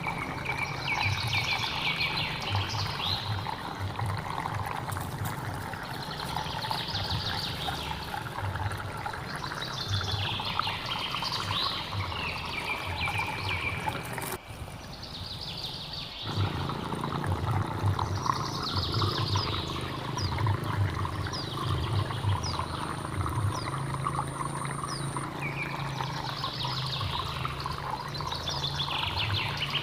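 Water running and trickling steadily, with a songbird singing short chirpy phrases every few seconds over it. The water sound thins out briefly around the middle.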